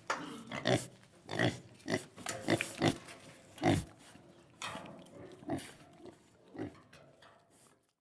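Piglets squealing and grunting in a string of about a dozen short, irregular calls, which stop shortly before the end.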